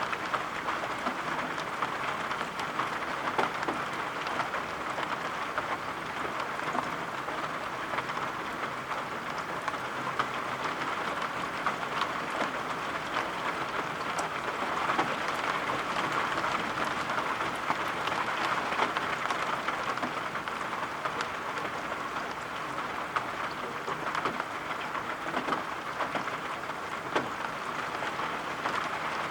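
Steady rain: an even hiss of falling rain with scattered sharp taps of single drops.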